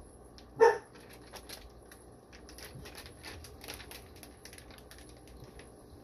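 Plastic fish shipping bags being handled, crinkling and rustling in a run of small irregular crackles, with one brief louder pitched sound just over half a second in.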